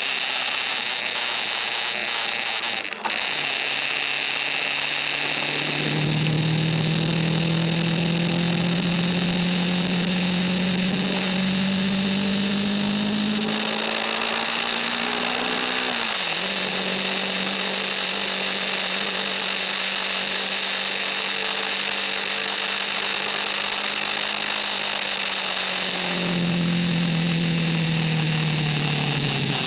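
KTM RC 390's single-cylinder engine on the move at speed, under a steady high hiss of wind and road noise. Its note is faint at first, comes in about a fifth of the way through and climbs slowly, drops sharply a little past halfway, and falls away again near the end.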